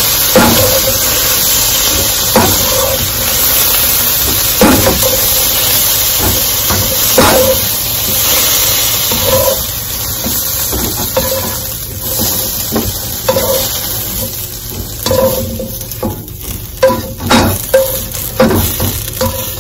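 Sliced bell peppers and onions sizzling in a hot wok while a slotted spoon stirs them and scoops them out, scraping and knocking against the pan. The sizzle is strong at first and dies down about halfway through as the wok empties, leaving mostly quicker spoon knocks and scrapes near the end.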